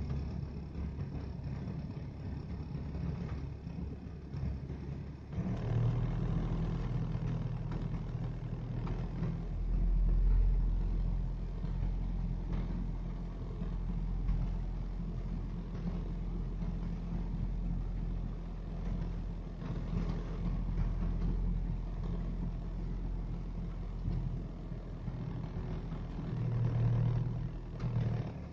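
Rover 214SLi's 1.4-litre K-series four-cylinder engine running rough at low revs, getting louder and deeper about five seconds in, with swells around ten seconds and near the end. The owner suspects a misfire below 2000 rpm.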